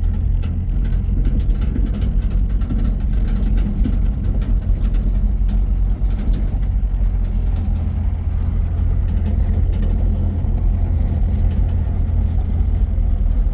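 A motor vehicle's engine running steadily, an even low drone, with scattered small clicks and knocks over it.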